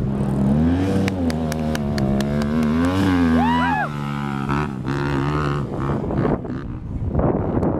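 Dirt bike engines running on a race track, their pitch rising and falling as the riders rev through the course.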